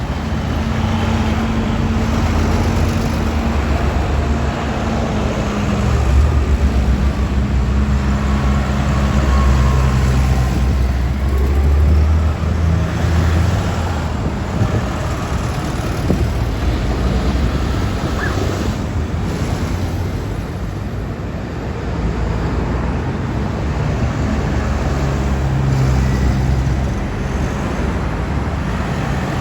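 Vintage tractor engines running as the tractors drive past, their low engine note rising and falling.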